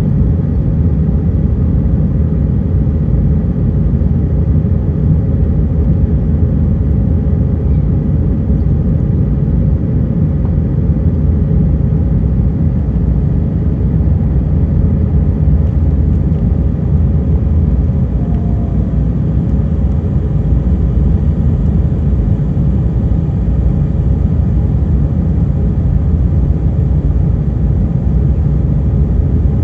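Steady, loud low rumble of an Airbus A320's jet engines and airflow, heard inside the passenger cabin, with a faint steady hum above it.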